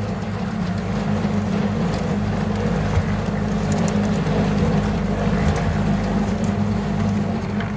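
A small engine running steadily at an even speed, a constant low drone.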